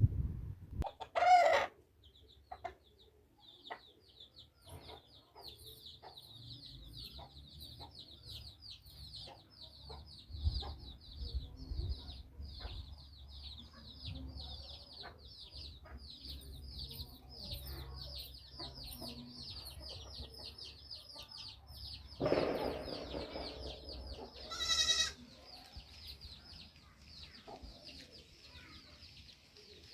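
Domestic chickens calling, with a loud pitched call about a second in and another near 25 seconds. Behind them is a steady run of high, rapid chirps, several a second, over a low rumble.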